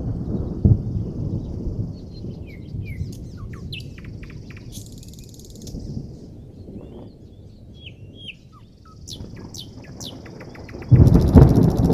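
Songbirds chirping in short, quick whistled notes while distant thunder rumbles low and fades. A high, pulsing buzz comes and goes. About eleven seconds in, a loud roll of thunder breaks in.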